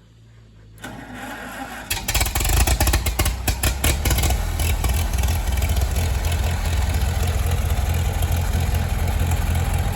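1956 Farmall Super M-TA tractor's four-cylinder engine starting after sitting a while: it turns over about a second in and catches about two seconds in. It fires unevenly for a couple of seconds, then settles into a steady run.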